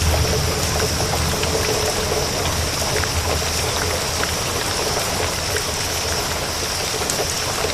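Steady rain falling, with scattered small drop ticks. A low thunder rumble dies away over the first couple of seconds.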